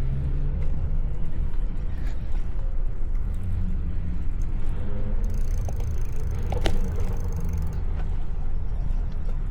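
Street noise heard from a moving bicycle: a steady low rumble of wind and road traffic. About two-thirds of the way through comes a brief higher hiss with a thin high tone, and a sharp click in the middle of it.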